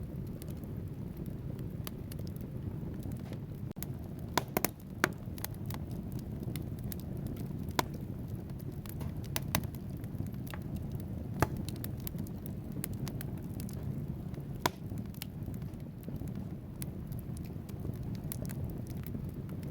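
Wood fire burning in a fireplace: a steady low rumble of flames, with sharp, irregular crackles and pops from the burning logs.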